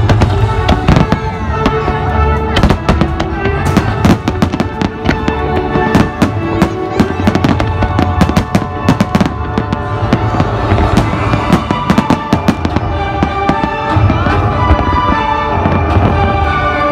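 Aerial fireworks shells bursting in rapid succession: a dense run of sharp bangs and crackles that thins out after about the middle, over music with held notes.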